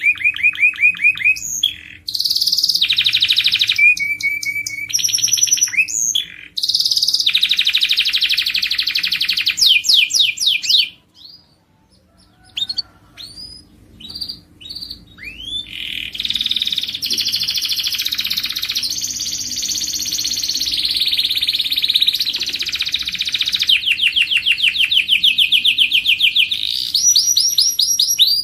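Domestic canary singing: a long song of fast trills and rolls, each phrase a quick run of repeated notes that switches to a new phrase every second or two. About eleven seconds in the song breaks off for a few seconds, with only a few short soft notes, then resumes with long rolling trills.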